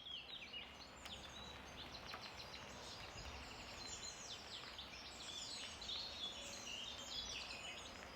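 Several small songbirds singing at once, a continuous tangle of quick high chirps, trills and short down-slurred notes, over a faint low background rumble.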